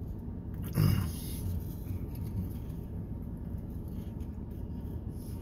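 A man chewing and crunching crackers, with a brief vocal sound about a second in, over a steady low background hum.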